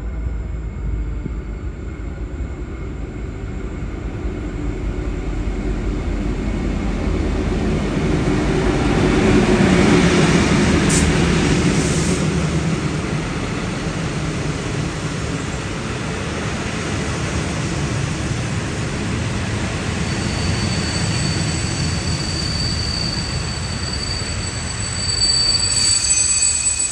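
V/Line diesel passenger train running along the platform, its rumble loudest about ten seconds in. Thin high-pitched wheel squeal comes in over the last several seconds.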